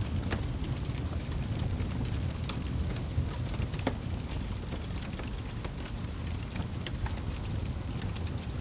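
Wood fire crackling: a steady low rumble of burning with many small irregular pops and snaps.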